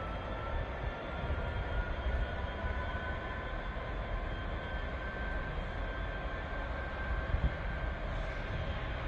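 Freight train locomotive pulling away from a stand at a signal, with a steady low rumble and a whine that rises slowly as it gathers speed.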